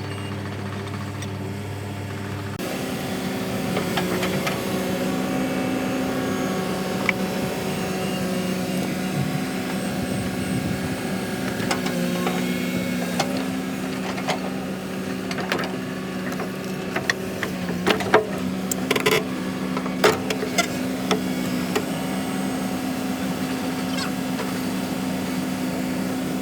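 Heavy machine engine running steadily; its note steps up and grows louder a few seconds in. A cluster of sharp metallic clanks comes about two-thirds of the way through.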